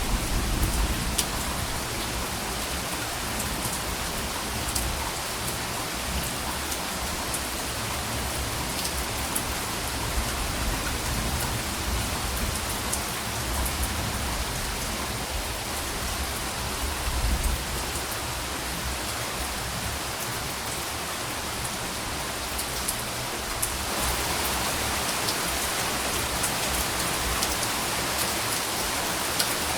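Steady rain falling on surfaces, with soft low rumbles of distant thunder swelling near the start and again about halfway through. About 24 s in the rain turns brighter and hissier, and the rumbling stops.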